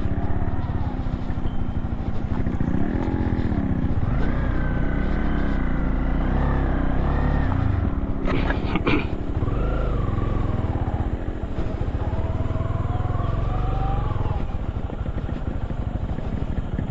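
Motorcycle engine running steadily while riding, with a sharp knock about eight and a half seconds in.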